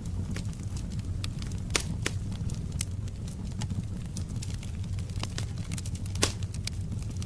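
Wood fire crackling in a fireplace: a steady low rumble with frequent small crackles, and two louder pops, one about two seconds in and one near the end.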